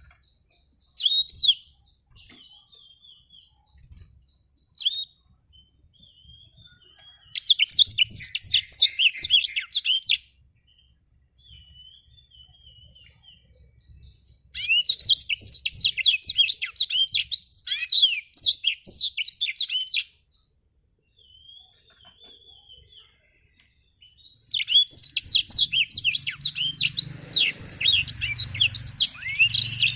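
Blackthroat (black-throated canary) singing: three long bursts of rapid, high twittering song, each several seconds long, with softer chattering between them and two short calls near the start.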